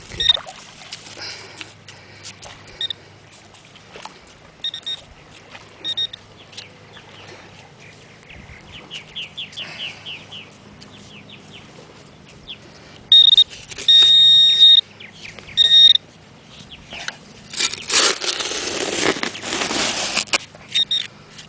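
Handheld metal detector beeping at a target still in the dig hole: a few short high beeps, then a run of beeps and a longer held tone about two-thirds of the way in. Near the end comes a loud rushing scrape.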